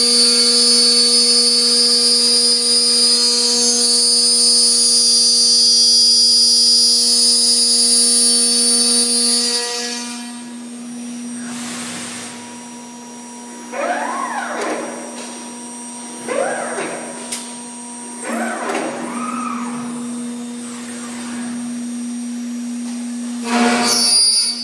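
CNC machining centre running its cycle: for the first ten seconds the spindle whines steadily at speed while cutting. It then goes quieter, with several whines rising and falling as the machine's motors move and change speed, and the loud running comes back briefly near the end.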